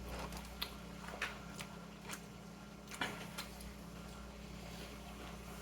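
Chewing with faint wet mouth clicks, about half a dozen scattered through the first three and a half seconds, over a steady low room hum.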